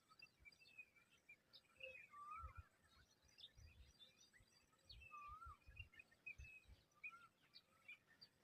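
Faint birdsong: a short whistled phrase that rises and falls, repeated three times a few seconds apart, among scattered higher chirps. Low rumbling thumps sit underneath.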